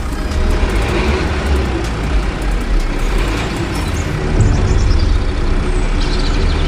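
A large motor vehicle's engine running: a steady, loud low rumble.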